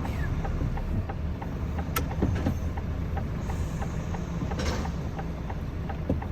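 HGV tractor unit's diesel engine idling steadily during uncoupling, with a sharp click about two seconds in and a short hiss partway through.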